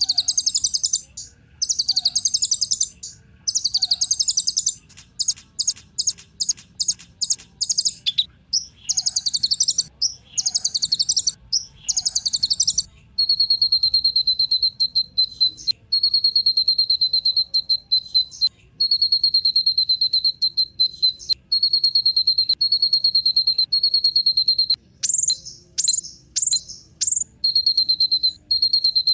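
Kolibri ninja sunbird singing. It gives high, scratchy, chattering phrases about a second long with short gaps between them, and then, about halfway through, a long fast trill held at one pitch that breaks off briefly a few times.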